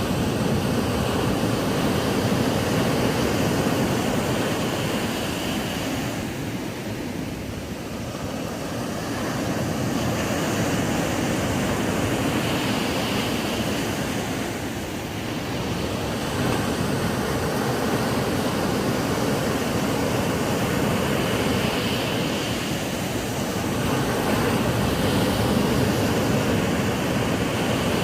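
Ocean waves breaking and washing up a sandy beach as a continuous roar of surf. It swells and eases gently every seven or eight seconds.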